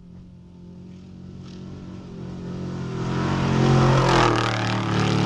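Trophy Truck Spec off-road race truck's engine approaching, growing steadily louder and coming close in the last two seconds, with a rush of dirt and tyre noise at its loudest.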